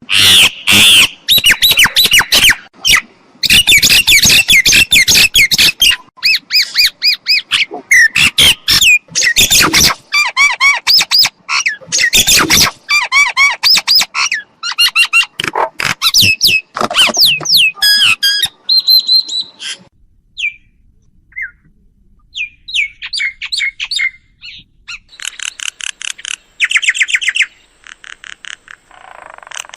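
Myna calling: a fast, loud run of harsh squawks, clicks and whistled gliding notes that thins out about two-thirds of the way in, followed by short bursts of quickly repeated notes near the end.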